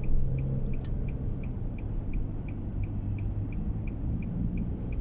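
Car turn-signal indicator clicking steadily, about three clicks a second, over a steady low engine and road rumble inside the cabin.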